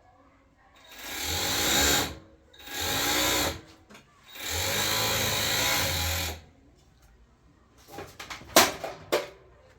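Electric sewing machine running in three stitching runs, the last about two seconds long, each starting and stopping with the foot pedal; a few sharp knocks follow about eight seconds in.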